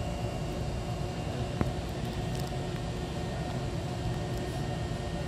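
Steady hum of a stopped electric train waiting at a platform with its door open, its onboard air conditioning and equipment running, with one sharp click about one and a half seconds in.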